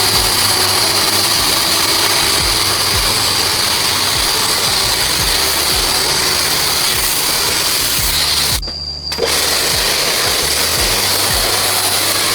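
A power tool running steadily with a high whine, stopping for a moment about nine seconds in and then running on.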